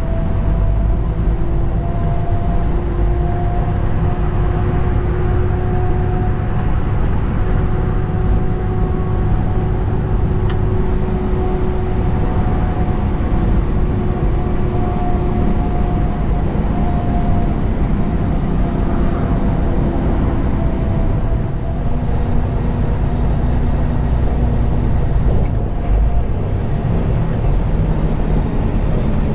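Detroit DD15 diesel engine of a 2021 Western Star 4900 semi truck running steadily under way, with a deep rumble and a slowly drifting engine note that changes about 22 seconds in.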